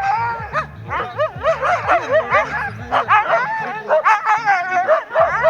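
Harnessed huskies yipping and yelping over one another in quick rising-and-falling calls: the excited clamour of sled dogs eager to run at a race start.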